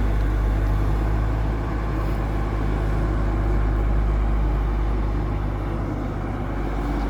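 Diesel bus engines idling close by, a steady low hum that keeps an even pitch.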